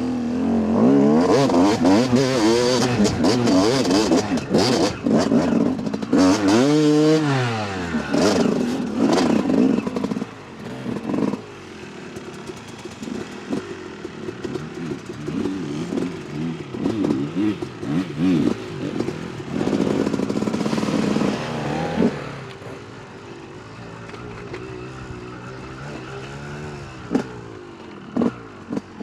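A dirt bike engine under hard riding, its revs rising and falling, with a quick drop and climb about seven seconds in. It settles to lower, quieter running after about ten seconds and picks up again briefly around twenty seconds, with rattles and scrapes from the loose track.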